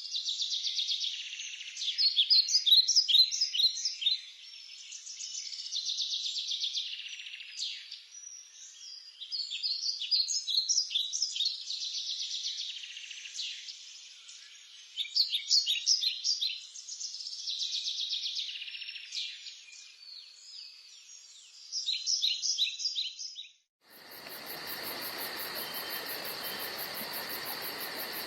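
A bird singing the same phrase over and over, about every four seconds: a buzzy trill followed by a run of quick, high chirps. About 24 seconds in it cuts off abruptly to a steady insect chorus with a fast, even, very high pulsing.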